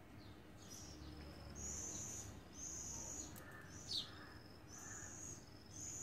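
Outdoor calls, most likely from birds: a high, buzzy call repeated in bursts of under a second, alternating between a higher and a slightly lower pitch. About four seconds in comes one sharp, falling call, the loudest sound here.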